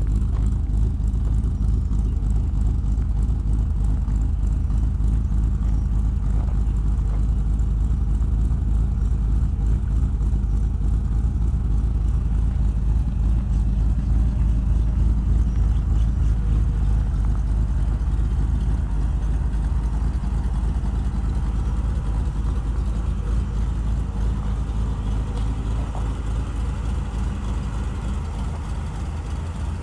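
1964 Chevy truck's 450 hp engine running steadily, a deep low rumble that eases off slightly toward the end.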